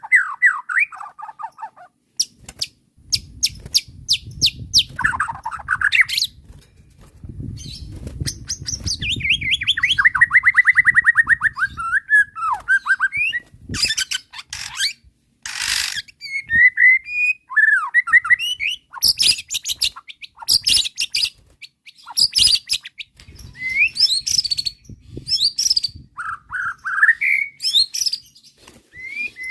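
White-rumped shama (murai batu) singing a long, varied, agitated song of fast trills, sweeping whistles and harsh rattling notes in quick succession, with short pauses between phrases. A low rumble sits under the song from a few seconds in until about halfway through.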